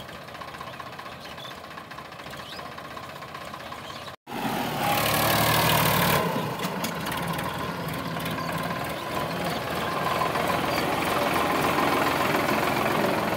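Sonalika DI 745 tractor's diesel engine running steadily. About four seconds in the sound cuts out for a moment and comes back louder.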